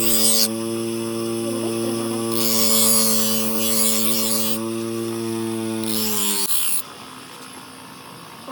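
Electric power tool's motor running with a steady hum, with two bursts of harsh grinding noise over it. The motor is switched off and winds down about six seconds in.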